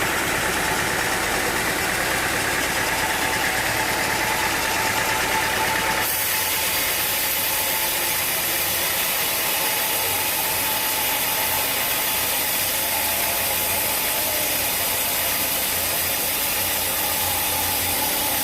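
Sawmill machinery running steadily, a continuous engine-like drone, with an abrupt change in tone about six seconds in.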